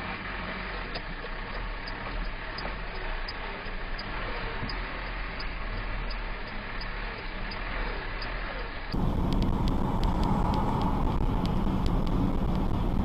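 Steady road and engine noise from inside a moving vehicle, with faint regular ticking. About nine seconds in it switches abruptly to louder road and wind noise.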